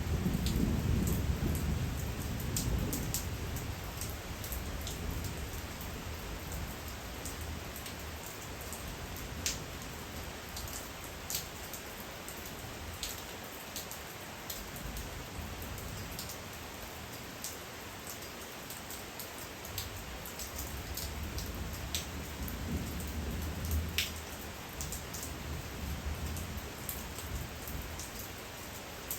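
Steady night rain with many separate drops tapping and dripping. Low rumbles of distant thunder swell near the start and again about three-quarters of the way through.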